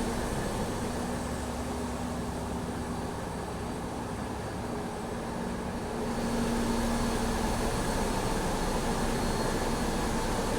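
Steady drone of a tugboat's onboard machinery, a constant low hum over a broad rushing noise, getting a little louder and brighter about six seconds in.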